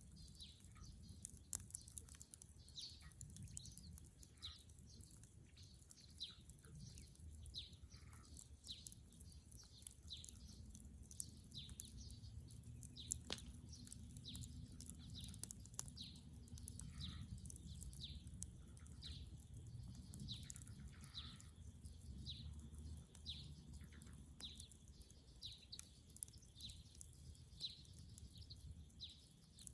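Faint outdoor fire of dead wood crackling with scattered sharp pops over a low rumble, while a small bird repeats a short, high, falling chirp about once a second.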